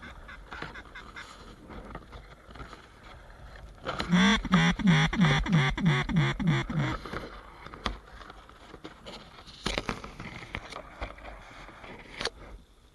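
A quick run of about ten loud duck quacks over some three seconds, starting about four seconds in, among scattered clicks and rustling.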